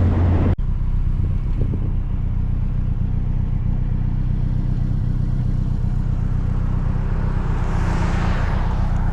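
Engine of a small open-top MG Midget running at a steady cruise, with road and wind noise. There is a sudden cut about half a second in, and a hiss swells up near the end.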